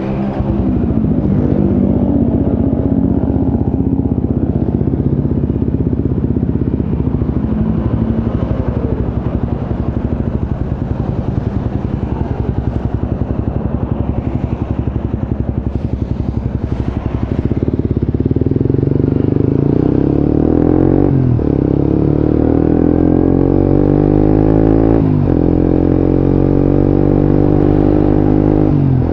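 Suzuki GSX-S150's single-cylinder engine through a Quinze Big Volume aftermarket exhaust, ridden. The note holds fairly level at first, then climbs in pitch repeatedly in the second half, dropping briefly at each gear change.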